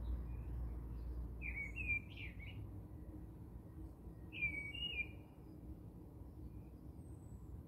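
Bird chirping: two short phrases of quick, gliding chirps, about two seconds in and again about four and a half seconds in, over a low background rumble.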